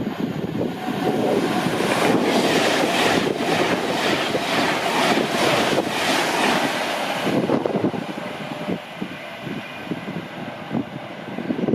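A train passing at speed: a loud rush of wheel and rail noise with a rapid clatter of wheels over rail joints. The sound eases off about eight seconds in, and quieter clatter continues.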